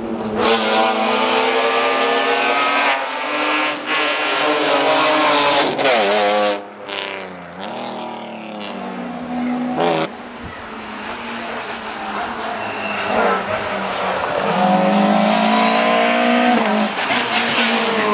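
Rally car engine at high revs, climbing in pitch through the gears, dropping off about six seconds in with a few sharp cracks, then pulling hard and rising again near the end.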